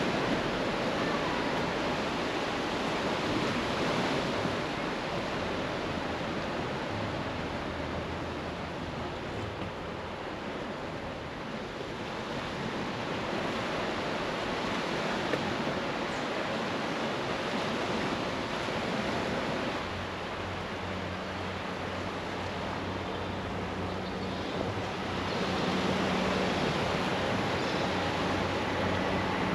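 Sea waves washing onto the beach, swelling and easing, with some wind on the microphone. About two-thirds of the way through, a low steady hum comes in and grows: a train approaching on the seafront railway.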